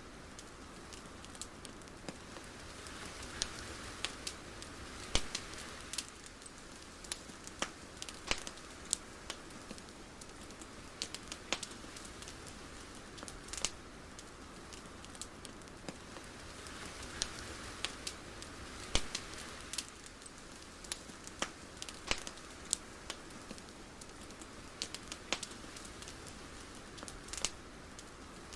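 Soft steady hiss of night ambience with scattered sharp crackles and pops at irregular intervals, like a crackling fire or dripping rain.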